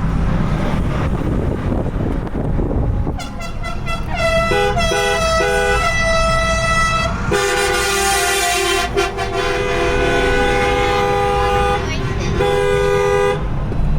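Road and engine rumble, then truck horns sounding in a run of blasts: a few short toots, a long blast held for several seconds from about seven seconds in, and one more short blast near the end. Each blast is a chord of several pitches.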